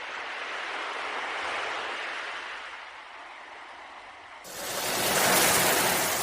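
Ocean surf washing in and out as a steady hiss of water that swells and ebbs. About four seconds in, a louder, brighter wash of surf cuts in abruptly.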